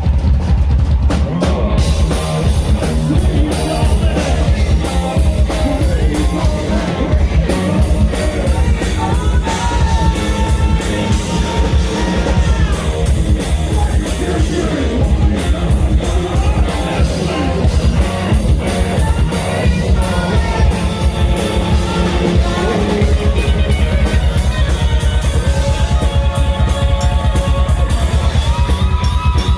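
Live heavy rock band playing loudly, with distorted electric guitar, a fast, driving drum kit and a heavy bass, and bending sung or screamed lines coming and going over the top.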